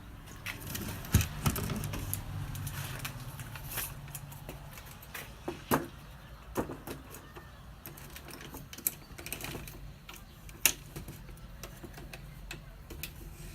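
Scattered metallic clicks and knocks of a car's rear differential being handled and set down on a workbench, with a sharp knock about a second in and others near six and eleven seconds, over a steady low hum.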